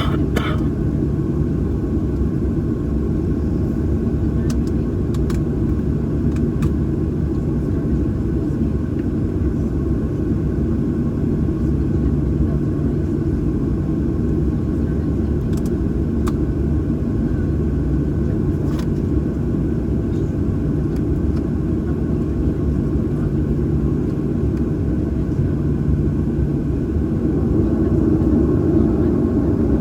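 Steady low cabin rumble of a Boeing 737-800 on the ground, its CFM56-7B jet engines running, with a few faint clicks and the rumble swelling slightly near the end.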